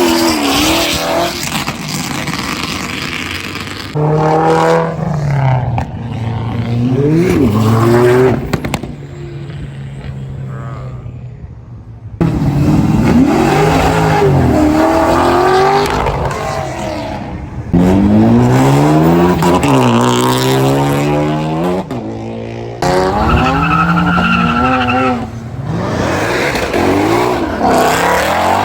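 Cars accelerating hard one after another, their engines revving up in pitch, dropping at gear changes and rising again. These are full-throttle 'sends' as the cars pull away. The sound comes in several short stretches that cut abruptly from one car to the next.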